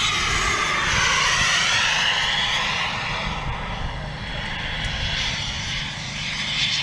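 Turbine engine of a radio-controlled model jet whining and rushing as the plane flies past. It is loudest a second or two in, then fades.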